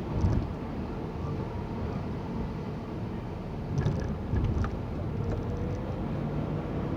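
Car engine and road noise from inside the cabin while driving: a steady low rumble, with a few light clicks and thumps about halfway through.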